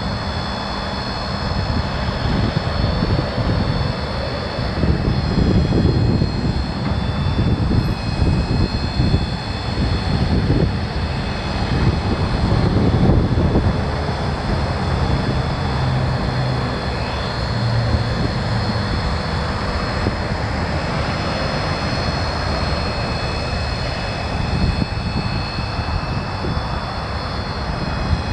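Ford F550's 6.7L turbo diesel engine running steadily, with a constant high whine over the engine rumble.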